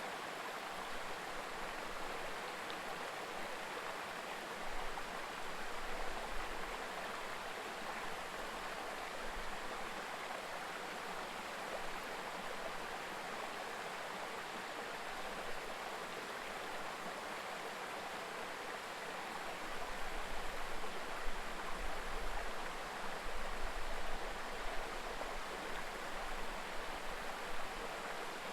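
Mountain stream babbling steadily over rocks, an even rushing sound. Low rumbles come and go around five seconds in and again from about twenty seconds on.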